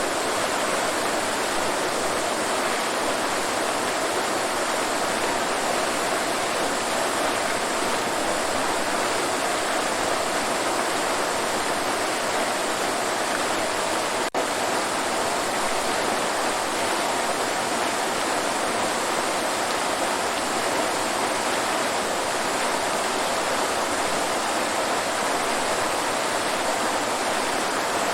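Steady rush of a waterfall, falling water sounding evenly throughout, with a split-second dip in level about halfway through.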